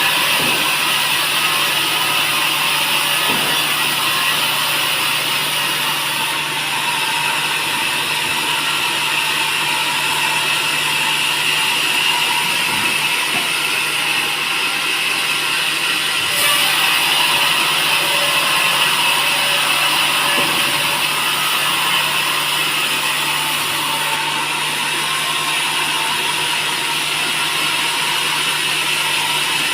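Sawmill machinery running steadily: a dense, continuous mechanical noise with a low hum underneath, shifting slightly a few times.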